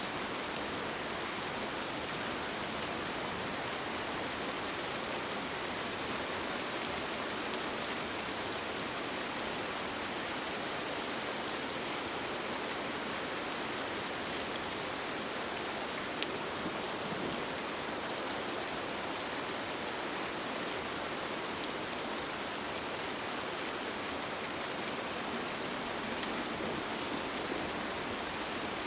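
Steady rainfall, an even hiss of rain with scattered drops ticking; one drop ticks a little louder about 16 seconds in.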